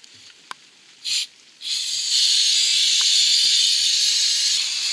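Aerosol can of brake cleaner spraying: a short burst about a second in, then a long steady spray.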